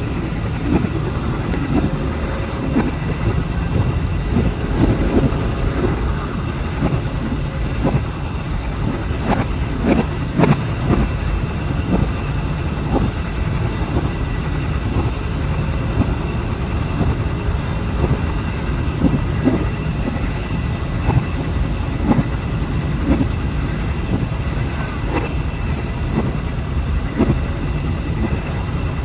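A train running on rails: a steady low rumble with scattered clicks and knocks and a faint steady high whine.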